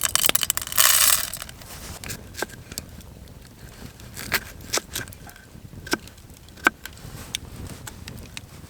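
A brief burst of rustling and scraping, then scattered sharp clicks and taps.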